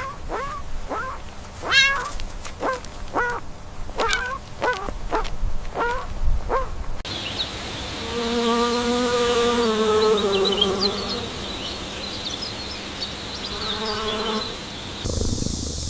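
Farm animal calls in two edited clips: first a run of about ten short calls that each drop in pitch, then a long wavering call of about three seconds followed by a shorter one.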